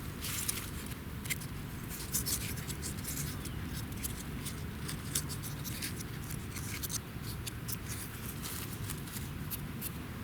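Dry, irregular scraping and crackling of wood and plant fibres being worked by hand: quick clicks and scrapes in no regular rhythm over a steady low rumble.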